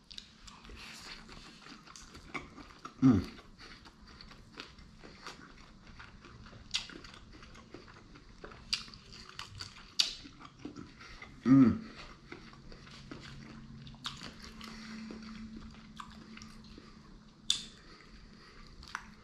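Close-miked chewing and biting of a sushi roll, with many small wet mouth clicks. Two short hums from the eater fall in pitch, one about three seconds in and one near twelve seconds.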